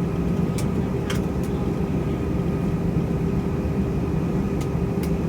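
Steady hum of an Airbus A321 airliner's engines and air system, heard as a constant low drone with a few faint ticks.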